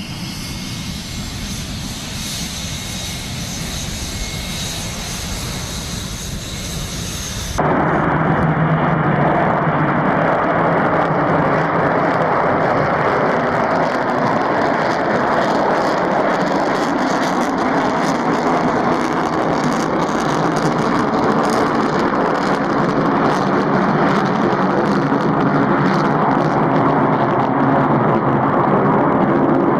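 Steady jet aircraft engine noise with a faint whine. About seven seconds in it cuts abruptly to a louder, duller jet noise with the high end missing.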